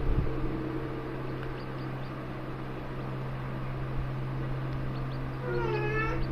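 Faint, short high peeps of young bird chicks over a steady low hum. Near the end comes a short pitched call that bends down and back up.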